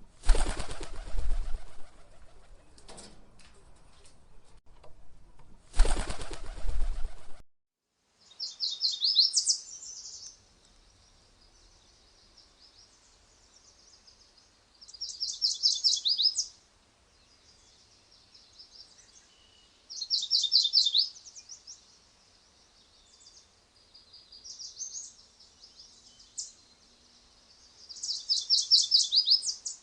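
Two loud bursts of bird wings flapping in the first few seconds, then after an abrupt cut a small songbird singing: a quick run of high notes, repeated about every five seconds.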